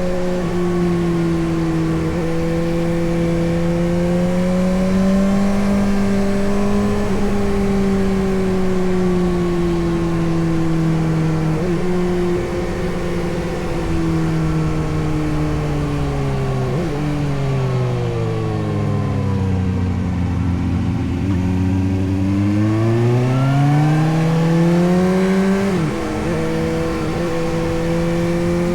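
Suzuki GSX-S750's inline-four engine riding along at steady revs, with brief breaks in its note at the gear changes. About two-thirds through, the revs fall away for several seconds as the bike slows, then climb back up under acceleration.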